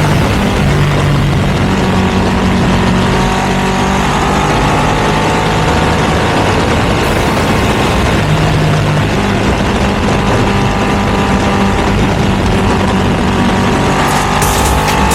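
Ducati V2 twin-cylinder engine with a Termignoni exhaust, running steadily as the motorcycle is ridden. Its pitch climbs near the end.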